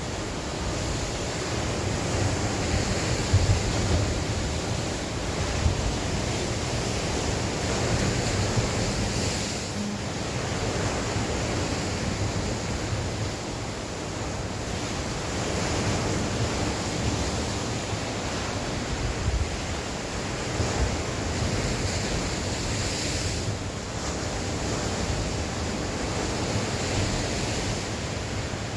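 Sea waves washing in and breaking, the surf swelling and easing every few seconds, with wind buffeting the microphone in low gusty rumbles.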